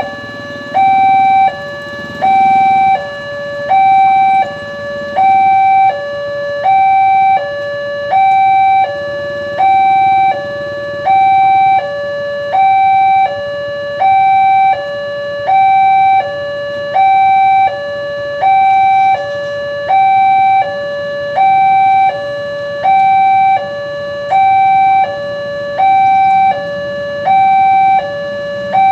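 Electronic two-tone warning alarm of an Indonesian railway level crossing, alternating steadily between a higher and a lower tone, a little more than once a second. It sounds while the crossing is active, warning of an approaching train.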